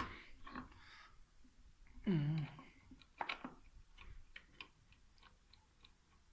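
Light, irregular clicks and taps of hand tools on the scooter's variator cover as it is being unbolted, with a brief voiced sound about two seconds in.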